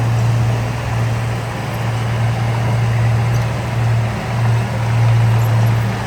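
Heavy diesel engine of earthmoving equipment running steadily, a constant low hum over a broad mechanical noise, swelling slightly now and then.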